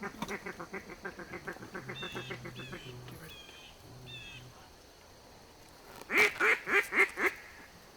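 Duck quacking: a fast, even chatter of about eight notes a second, a few high squealing whistles, then about five loud quacks near the end.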